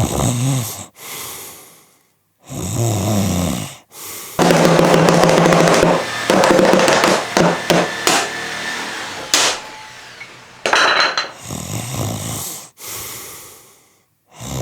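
A person snoring: several drawn-out snores separated by short silent pauses, with the longest and loudest stretch in the middle.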